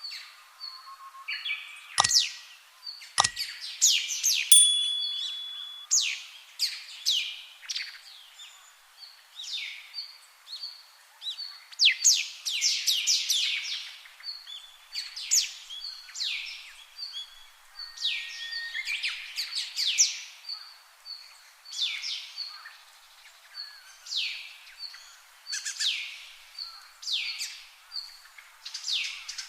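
Birds calling: short, quickly falling chirps repeated every second or two, with a fainter short, repeated peep between them. Two sharp knocks come about two and three seconds in.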